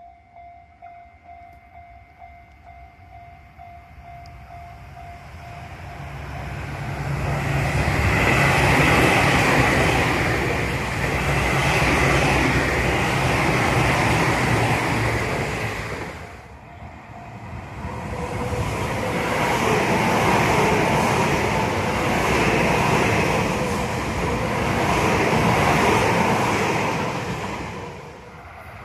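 Tobu Tojo Line electric train passing at speed: wheels running on the rails, building up about six seconds in. It breaks off suddenly around the middle, and another long loud train passage follows.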